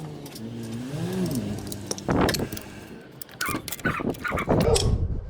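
Metal clinking and knocking as a new oil filter is spun on and tightened against the engine block, in irregular bursts from about two seconds in. Before that, a faint rising-and-falling whine-like tone.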